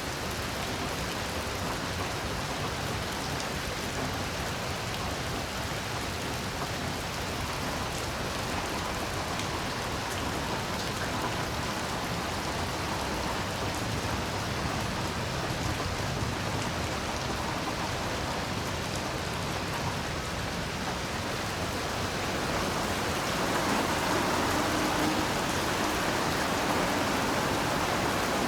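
Heavy rain falling steadily, a dense even hiss that grows a little louder near the end.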